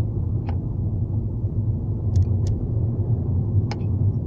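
Hyundai i30 driving, heard from inside the cabin as a steady low engine and road rumble, with a few short sharp clacks. The clacks come when the driver lifts off the accelerator.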